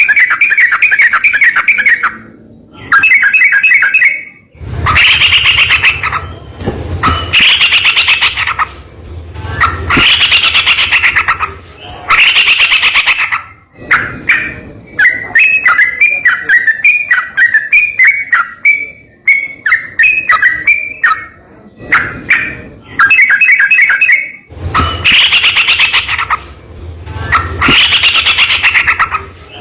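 Yellow-vented bulbul (trucukan) singing loud, harsh bursts of rapid rolling notes, each about a second and a half long, repeated about every two to three seconds. Midway through, the bursts give way for several seconds to a run of short falling chirps.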